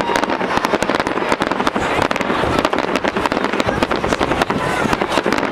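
Fireworks going off in rapid succession: a dense, unbroken string of bangs and crackles.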